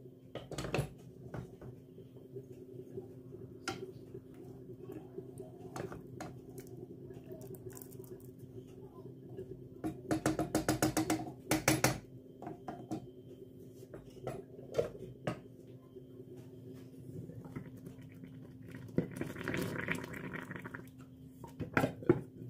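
Scattered clicks and knocks of things being handled, over a steady low hum. About ten seconds in there is a quick rattle of rapid taps, and near the end a short hiss.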